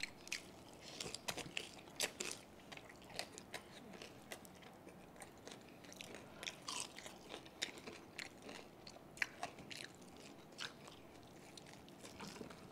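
Close-up chewing and biting of crispy deep-fried pork belly (lechon kawali) and rice: many small irregular crunches and clicks.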